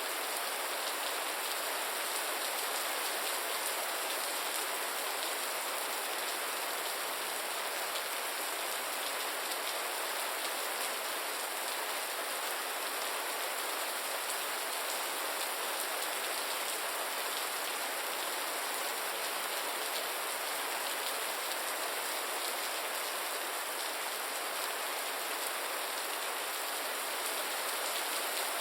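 Steady rain falling on a surface, an even hiss with fine patter of drops that doesn't change in strength.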